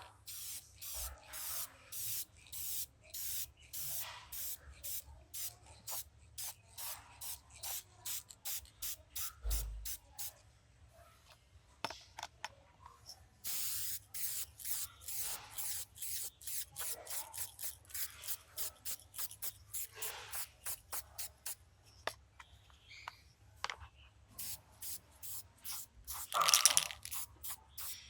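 Paint being sprayed onto a repaired plastic part in rapid short hissing bursts, about two to three a second, with one longer spray about halfway through and a louder burst near the end.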